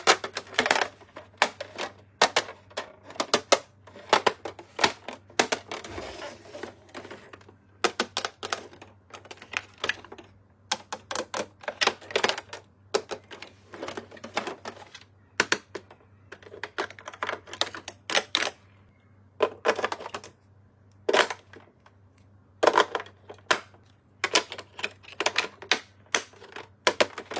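Irregular sharp clicks and taps of hard plastic pieces and packaging being handled, in quick clusters with short pauses, with a brief soft rustle about six seconds in.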